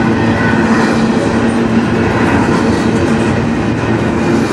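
Double-stack intermodal well cars rolling past close by: a steady, loud rumble and clatter of steel wheels on the rails.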